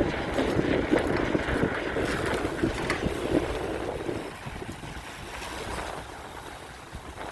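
Wind buffeting the microphone on a moving bicycle, with rumbling road and ride noise; it eases off about four seconds in.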